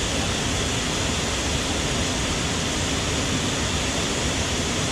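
Steady, even rushing noise with no pitch, rhythm or sudden events.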